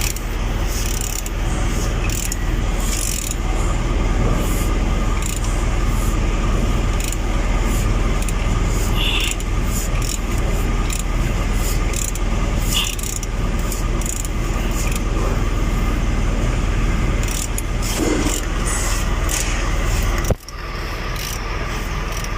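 Metal hand tools clicking and scraping on a Nissan KA24DE engine as its cylinder head is unbolted and worked loose, over a steady background noise.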